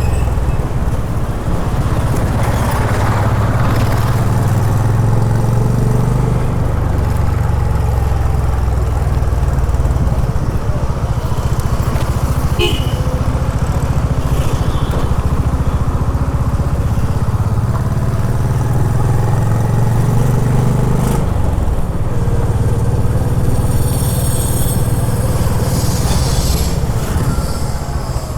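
Honda H'ness CB350's air-cooled single-cylinder engine running under way, its note changing a few times as the rider varies the throttle.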